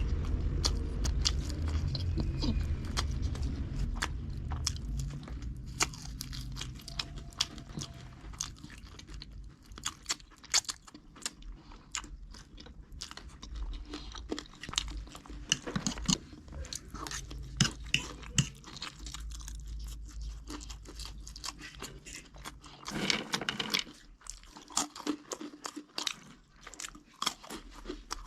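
A person biting and chewing crunchy food close to the microphone, with many sharp crunches, and a low rumble under the first several seconds.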